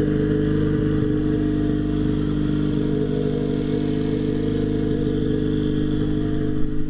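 Race car engine idling steadily and loudly, holding an even pitch without revving.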